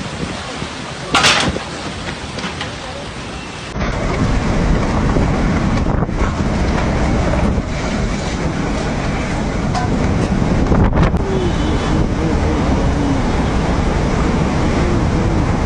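Strong storm wind buffeting the microphone as a steady roar, with a short sharp noise about a second in. The wind suddenly gets heavier and deeper about four seconds in and stays that way.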